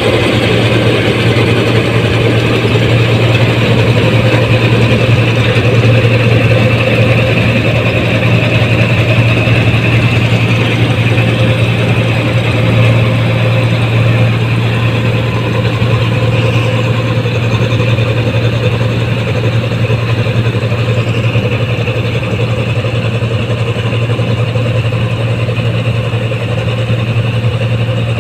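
Rice combine harvester's diesel engine and threshing machinery running steadily at working speed, with a strong low hum.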